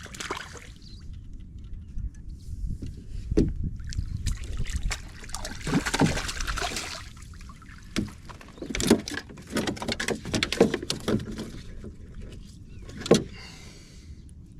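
Scattered knocks and rustling from handling a small, freshly caught grunter aboard a small boat, over a steady low rumble. The knocks come at irregular intervals, several of them sharp.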